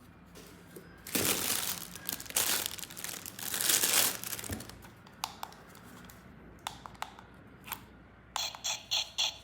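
Plastic packaging crinkling and tearing in several bursts as the toy set is unwrapped, followed by a few light clicks. Near the end a fast, evenly repeating pulsing sound starts up.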